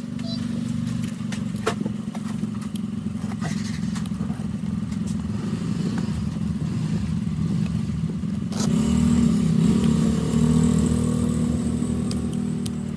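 A motor running steadily with a low drone, switching on at the start and getting louder about eight and a half seconds in.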